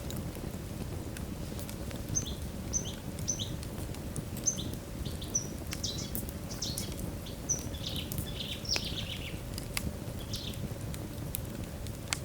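Wood fire burning in a fireplace: a steady low rush with scattered sharp crackles and pops. From about two seconds in to near the end, a run of short high chirps sounds over it, several to the second at first and thickening in the middle.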